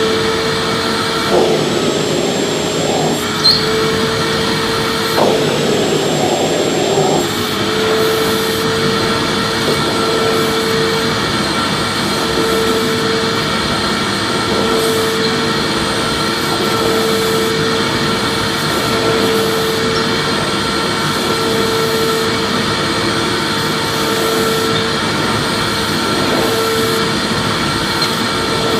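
Vacuum cleaner running steadily: rushing air with a constant motor hum and a high whine over it. A few light knocks come in the first several seconds.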